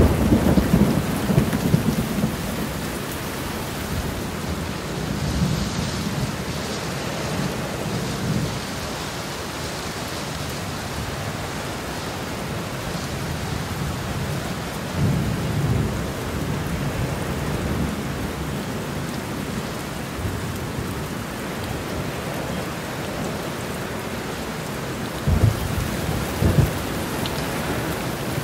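Steady rain falling through a thunderstorm, with low rolls of thunder rumbling in the first couple of seconds and again about five and fifteen seconds in, and two short low jolts near the end.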